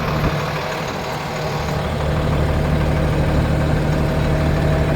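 Freightliner lube truck's diesel engine idling steadily, growing louder about two seconds in and then holding even.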